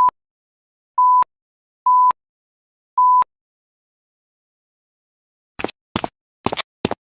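Microwave beeping four times, short steady high beeps about a second apart, as it refuses to start. Near the end come four short, quick noisy clicks or knocks.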